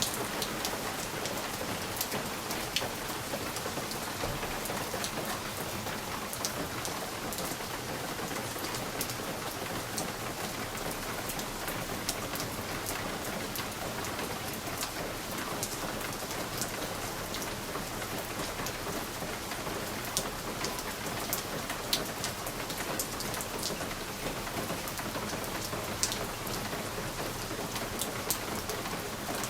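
Steady rain with individual drops ticking sharply against a window pane.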